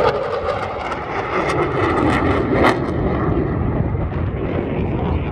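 Airplane flying past with a steady engine roar whose pitch drops as it goes by, over the rumble of wind on the microphone.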